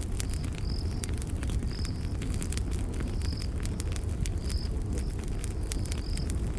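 Campfire crackling with frequent sharp pops over a low steady rumble, while a cricket gives short high chirps about once a second.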